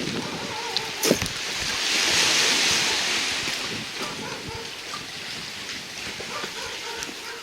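Sea waves washing in, one wave swelling and easing off a couple of seconds in, with a sharp knock about a second in.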